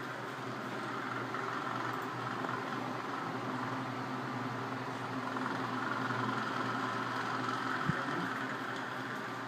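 Electric fans, a Mondial Turbo and a Silêncio Bravio 40, running noisily: a steady whir with a low hum and a higher whine. A single sharp click comes near the end.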